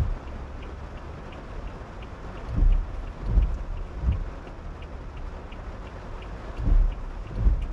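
Rain falling on a moving car, a steady hiss with faint regular ticking. Low thuds come in runs of three, about three-quarters of a second apart, one run a little after two seconds in and another near the end.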